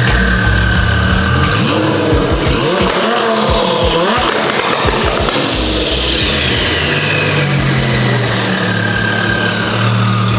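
Car engines running and revving at a car meet: one rises in pitch about four seconds in, and a high whine falls in pitch from about five seconds in.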